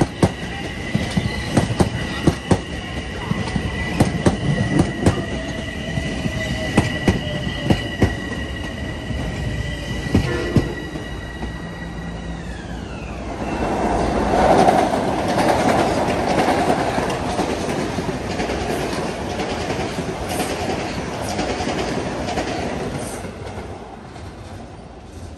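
A train running past, its wheels clicking rapidly over rail joints, with a high steady whine that glides down in pitch about halfway through. A louder rushing noise follows and fades near the end.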